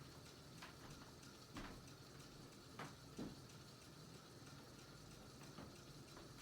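SMC Laguna ceiling fan running quietly: a low steady hum broken by a few irregular faint ticks and scrapes from its spinner motor, the scraping and grinding of a motor in poor condition.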